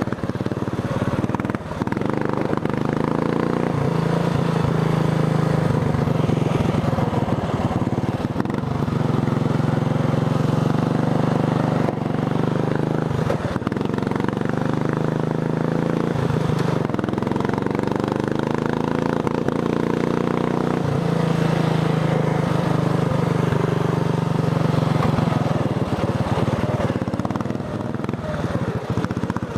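Racing lawn tractor's engine running hard under way, its pitch climbing several times as it speeds up and dropping abruptly now and then as the throttle comes off.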